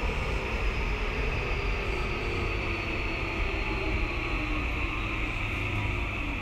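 Tokyu 2020 series electric train heard from inside the car while running between stations: a steady rumble of wheels on rail, with a thin electric motor whine slowly falling in pitch.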